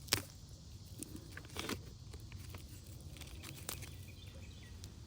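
A few sharp clicks and a brief rustle over a low steady rumble.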